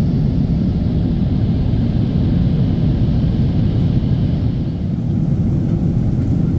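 Boeing 777-300 airliner's jet engines and airflow, a loud, steady low rumble as heard from the passenger cabin.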